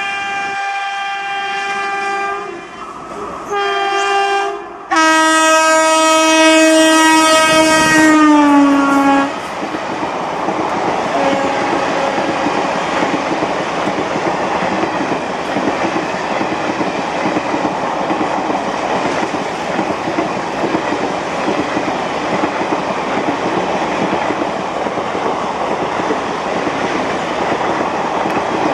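Horn of an Indian Railways electric locomotive sounding in three blasts, the last longest and loudest, its pitch dropping as the train passes. Then a steady rumble and wheel clatter of passenger coaches running by at speed.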